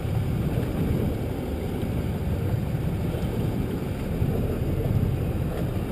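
Steady low rumble aboard a small fishing boat at sea, with no clear pitch or rhythm.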